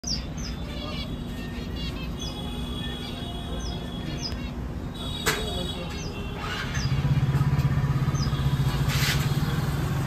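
Caged birds chirping, short high notes repeated every half second or so. A loud low hum starts about two-thirds of the way in, with a sharp click near the middle.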